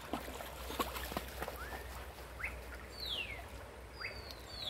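Birds calling: a few short rising chirps, then two falling whistles in the second half. Light dripping and ticking of water can be heard from the wet cast net.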